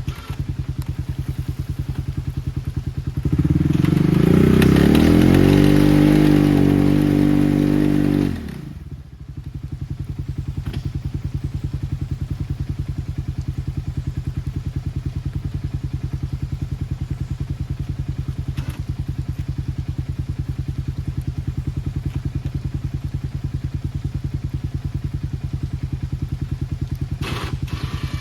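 Ranger's engine idling with a steady pulse, revved hard for about five seconds starting about three seconds in, then dropping sharply back to idle.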